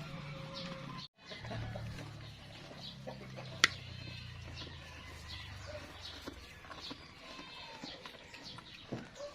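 Farmyard sounds from the goat pen: scattered short, faint animal calls and clucks over a low hum that fades out about six seconds in, with one sharp click a few seconds in.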